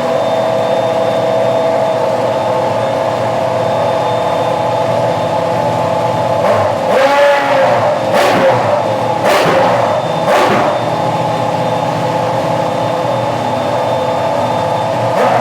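Jaguar V10 racing engine running at a fast, steady idle, blipped four times in quick succession about a second apart near the middle.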